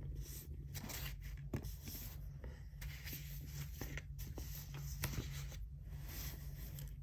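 Writing by hand on paper: irregular scratchy pen strokes with a few sharp taps, over a low steady hum.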